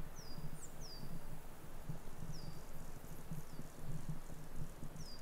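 Small birds calling, several short high chirps that slide down and level off, over a low rumble.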